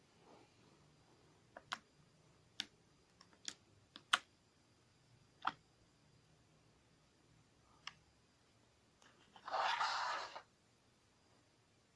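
Sticky clear slime being played with: scattered sharp pops and clicks, then a louder wet crackling squish lasting about a second near the end.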